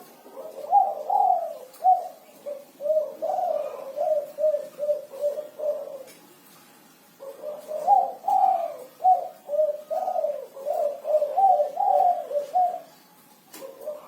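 Spotted dove (derkuku) cooing in its 'kuk 5' song: two long phrases of repeated coos, each lasting about five seconds with a short pause between them, and a third phrase starting near the end.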